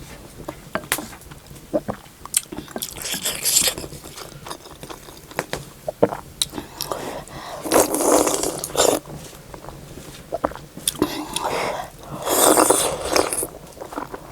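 Close-miked mukbang eating sounds: chewing hot soup momo and noodle soup, with three long slurps and many small clicks and scrapes.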